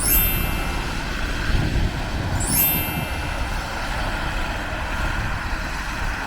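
Road traffic on a city street: vehicles passing with a steady road noise and low rumble. Two brief, rising high-pitched sweeps come through, one at the start and one about two and a half seconds in.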